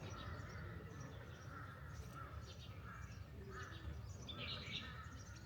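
Wild birds calling, a run of short repeated calls with a louder cluster about four and a half seconds in, over a low steady rumble of wind or outdoor noise.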